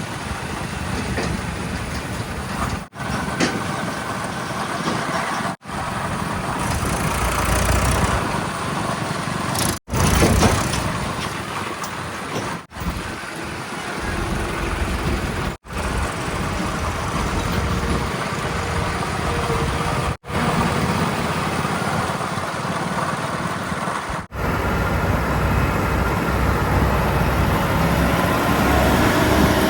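Heavy diesel engines of a backhoe loader and tipper vehicles running, broken by abrupt cuts every few seconds where short clips are joined.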